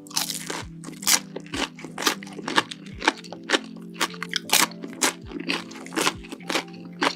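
Close-miked crunching of crisp food covered in cheese sauce being chewed, about two loud crunches a second, over steady background music.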